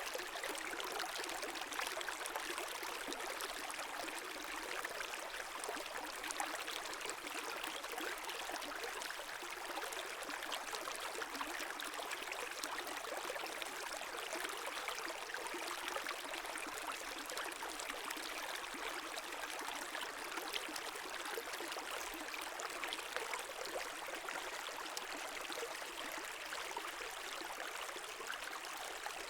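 A brook flowing, a steady, even rush of water.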